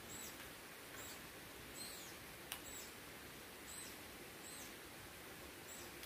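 Faint outdoor ambience: a bird repeats a short high chirp about once a second over a steady soft hiss. There is one sharp click about two and a half seconds in.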